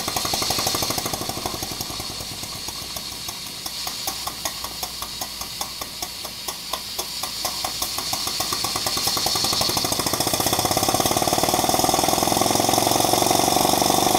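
Tiny Power Ajax steam engine running on steam with a fast, even clatter of knocks. About ten seconds in it grows louder and a steady hiss joins in.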